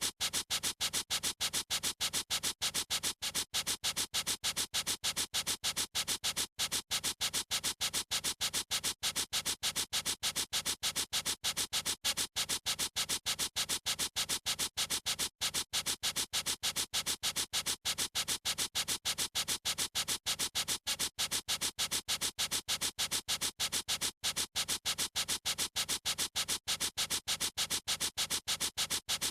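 Felt-tip marker scribbling back and forth, an even, repeating scratch of about five strokes a second.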